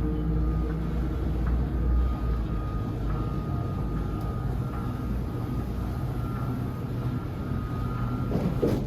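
Steady low rumble of a vehicle in motion, with faint thin tones above it.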